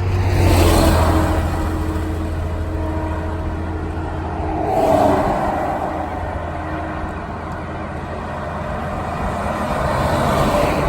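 Road traffic: vehicles going by one after another, with swells as each passes (about three) over a steady low engine hum.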